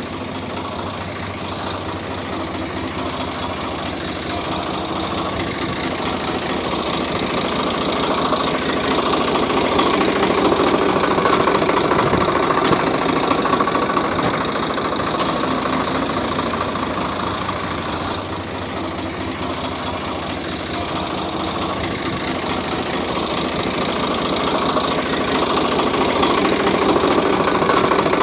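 A small motor running steadily with a buzzing, rattling drone, slowly getting louder and then softer again.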